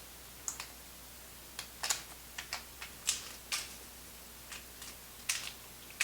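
Irregular light clicks and crackles from handling an opened MRE beverage powder packet while preparing the drink.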